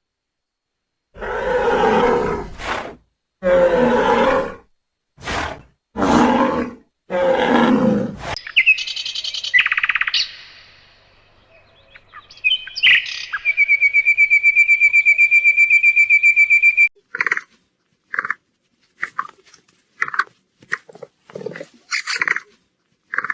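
A sequence of animal calls: several loud, rough roars of a second or two each, then high bird chirps, a steady trill lasting about three seconds, and a run of short chirps.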